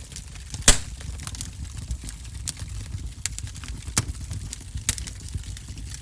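Wood fire crackling in a fireplace over a low steady rumble, with many small snaps and a sharp, loud pop less than a second in, and other clear pops around four and five seconds in.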